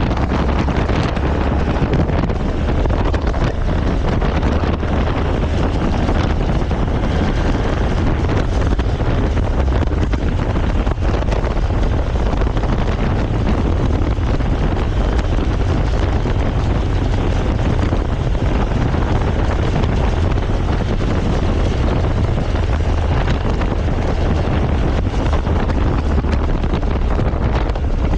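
Wind buffeting the microphone on a moving motorcycle, a steady rushing roar that is loudest at the bottom, with the motorcycle's running and road noise mixed in beneath it.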